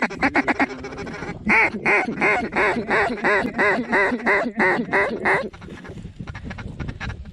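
Mallard quacking: a quick chatter of short notes, then about a dozen loud, evenly spaced quacks at roughly three a second that stop near the end.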